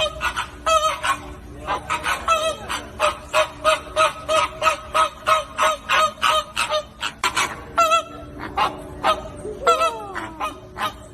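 A flock of flamingos honking: many short calls overlapping several times a second, with a few longer calls falling in pitch near the end.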